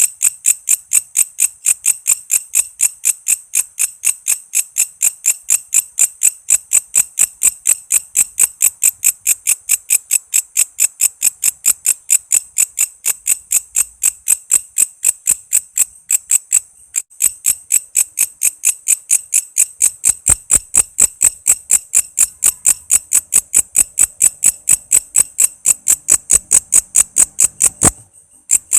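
Walang kece insect calling in a steady train of sharp, high chirps, about four a second. The train breaks off briefly about 17 seconds in and again near the end.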